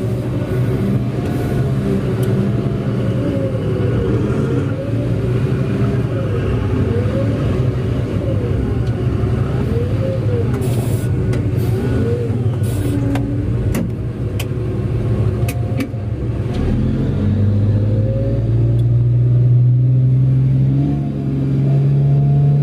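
Large diesel engine of a mining haul truck running under load, with a wavering whine over the engine note and a few sharp clicks midway. About two-thirds of the way through, the engine note strengthens and climbs steadily as the truck accelerates.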